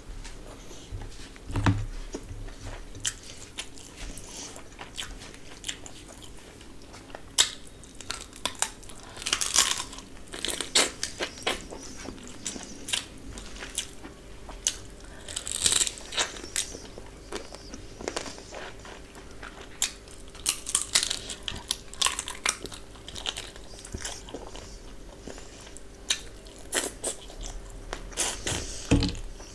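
Close-miked chewing of a mouthful of chicken dum biryani eaten by hand: irregular mouth clicks and smacks, some bursts louder than others.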